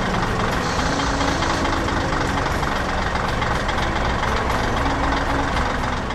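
Engine of a heavy construction vehicle running steadily.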